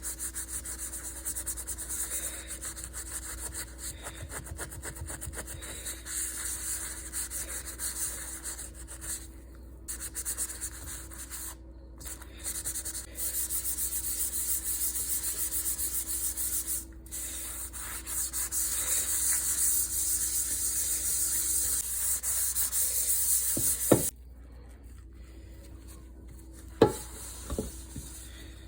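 Fast, dry scrubbing strokes rubbing at a rusty pan, in stretches with short pauses. The scrubbing stops near the end, and a few sharp knocks follow.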